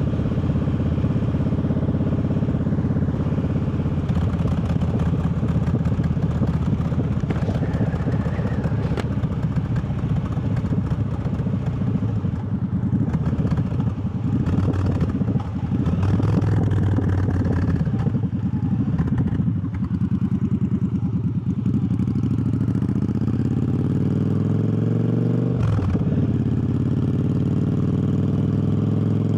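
Triumph Bobber's 1200 cc parallel-twin engine running under way. Near the end the revs rise, drop sharply at a gear change, then rise again as it accelerates.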